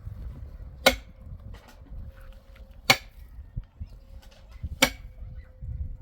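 Three sharp knocks, about two seconds apart, each ringing briefly, over a low rumble.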